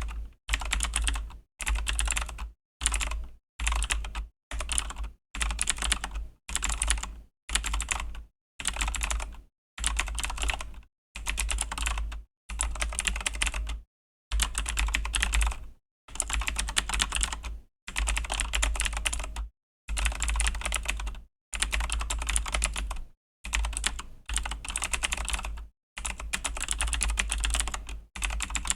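Razer BlackWidow V3 mechanical keyboard with clicky Razer Green switches being typed on fast. The clicks come in bursts of about a second, broken by short total silences.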